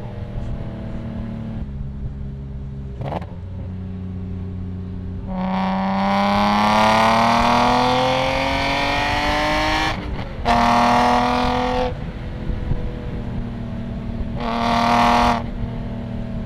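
BMW E46 M3's S54 straight-six with Euro headers and a Status Gruppe V1 muffler, loud through the exhaust. It cruises steadily, then pulls hard about five seconds in, its pitch climbing for some four seconds. A gear change drops the pitch, a shorter second pull follows, and near the end it gives another brief burst of throttle.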